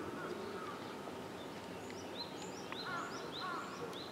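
A bird chirping: a run of short, high chirps, about three a second, starting about halfway through over a steady background noise.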